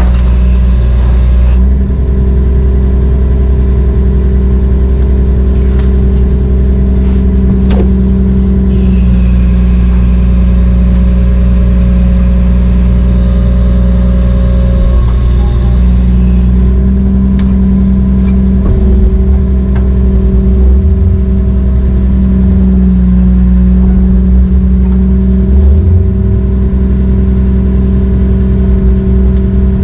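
Heavy diesel engine running steadily under load, its tone shifting a little several times as the load changes, with a few short knocks around the middle.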